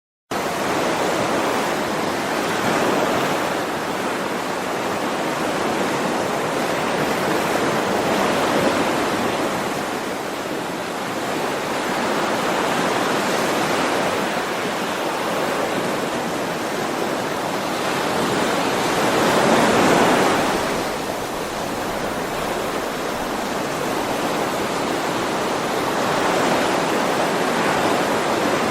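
Ocean waves breaking and washing ashore: a steady hiss of surf that swells and ebbs every five to six seconds, the biggest swell about twenty seconds in.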